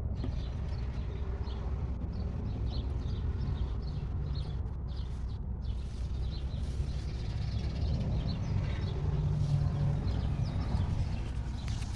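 Outdoor ambience: small birds chirping faintly over a steady low rumble.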